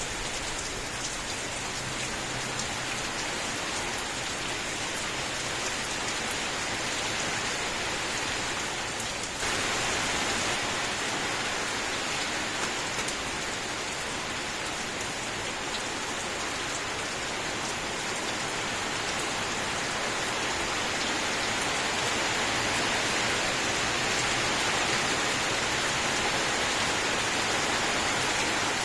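Steady rain, a dense hiss with scattered drop ticks. About nine seconds in the rain changes abruptly, becoming brighter and a little louder.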